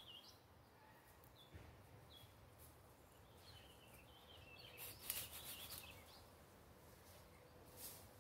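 Quiet outdoor ambience with songbirds chirping, short high calls scattered throughout. A brief scratchy noise about five seconds in is the loudest moment, with another near the end.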